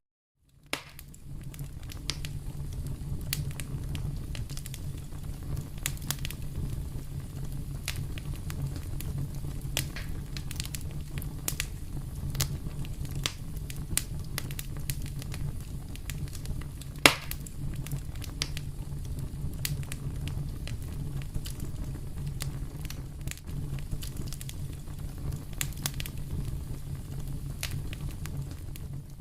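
Wood fire burning in a fireplace: a steady low rumble of flame with frequent small crackles and pops, and one sharp, much louder pop about seventeen seconds in.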